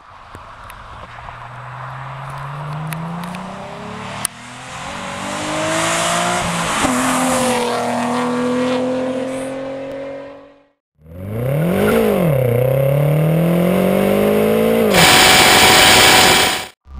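Nissan 350Z's 3.5-litre VQ35DE V6 accelerating hard past on the road. Its pitch climbs through the revs with a gear change about four seconds in, then the note drops about seven seconds in as the car goes by and fades away. After a short gap, another car's engine revs hard, sweeping up, down and up again through a shift, and ends in a loud burst of noise.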